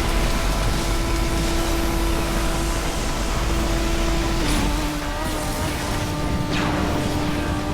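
Motorcycle engine running at a steady speed, its pitch steps slightly lower about four and a half seconds in.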